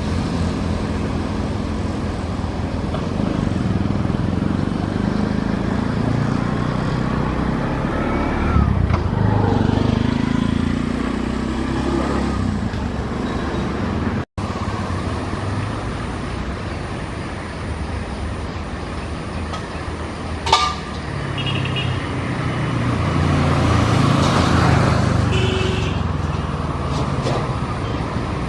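Road traffic noise: vehicle engines running and passing, with a couple of short horn-like toots in the second half and one sharp knock just after the middle.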